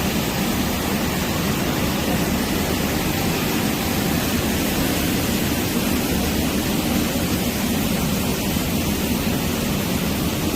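Walk-behind floor scrubber running steadily, a constant machine noise without change in pitch or level.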